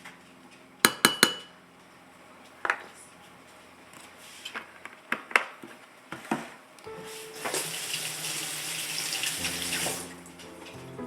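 Kitchen utensils and dishes clattering: three sharp clacks about a second in, then a few scattered knocks. After that a kitchen tap runs into the sink for a couple of seconds.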